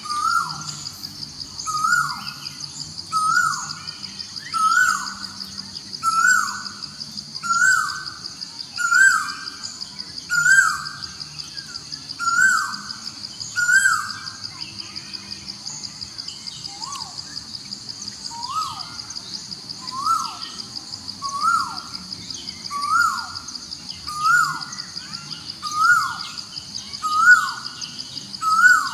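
A bird calling over and over, one short note about every second and a half that rises and then drops, with a short break about halfway through. Behind it runs a steady high-pitched buzz of forest ambience.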